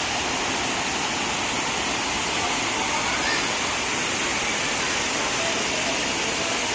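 Steady rushing of water at a waterfall, an even, unbroken noise at a constant level.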